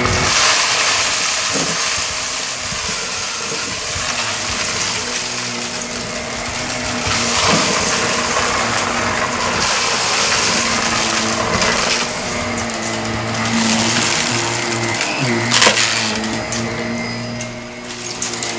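Shark vacuum cleaner running steadily over carpet, sucking up scattered debris that crackles and clinks as it is pulled in. A few sharp clicks stand out, the loudest about fifteen and a half seconds in.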